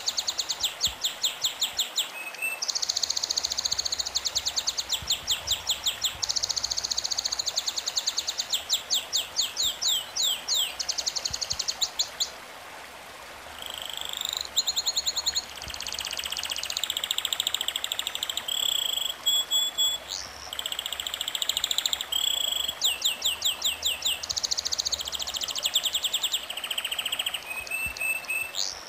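Birdsong: fast trills of repeated high chirps in runs of a second or two, with a quieter lull about halfway through, over a faint steady hiss.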